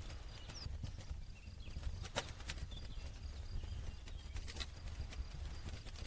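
Campfire crackling: irregular sharp pops and snaps of burning wood over a low steady rumble of the fire, with a few faint short bird chirps.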